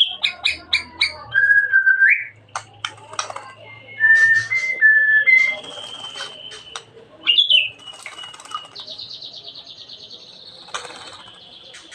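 A murai songbird singing varied clear whistled phrases, with a rapid trill about three quarters of the way through. Short rustling or splashing noises fall between the phrases.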